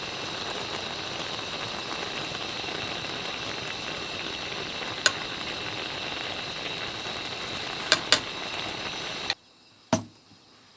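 Pot of sukiyaki udon cooking over a camp stove, a steady hiss of sizzling and bubbling broken by three sharp utensil clicks, about halfway through and twice in quick succession near the end. The hiss stops suddenly shortly before the end, and one more click follows.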